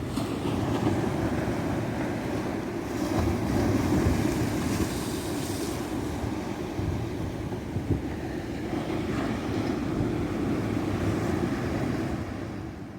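Ocean surf breaking and washing up a beach: a steady low rush with a louder, hissing wash of water a few seconds in, fading down near the end.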